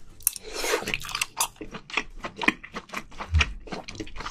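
Close-miked eating sounds: a person biting and chewing a scallop from spicy braised seafood, an irregular string of short mouth clicks and smacks.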